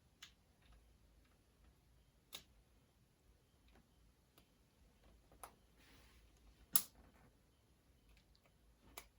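Scattered small clicks and taps of metal transmission parts being handled during assembly: about five, spread out, with the sharpest one a little past the middle.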